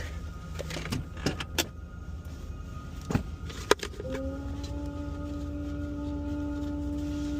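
Rear-loader garbage truck's engine running steadily, with a few sharp clicks and knocks. About four seconds in, a steady hydraulic whine starts up and holds as the truck's hydraulics are engaged to dump the load.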